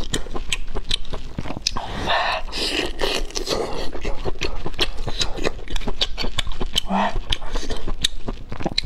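Close-miked chewing of soft braised meat, with wet mouth noises and many sharp smacking clicks, busiest about two to three seconds in.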